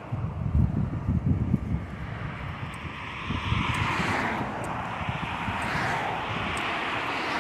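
Wind buffeting the microphone of a moving bicycle in low, gusty rumbles, heaviest in the first couple of seconds, under a rushing hiss that swells and fades twice.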